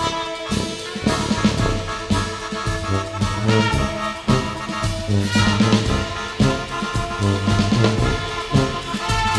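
Instrumental jazz played by a small brass ensemble: trumpets, baritone saxophone and tuba over keyboards and a drum kit.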